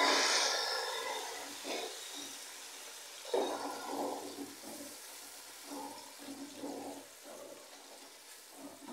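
Tomatoes frying in hot oil with onions in a steel pot: a loud sizzle that dies down over the first second or so, then a spatula stirring and scraping against the pot in a series of short strokes.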